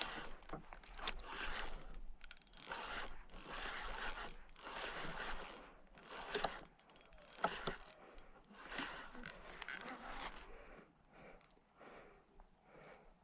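Fishing reel working during a fight with a lake trout: the reel's gears and drag click and whirr in spells a second or so long, with short breaks between them. The sound fades out about ten seconds in.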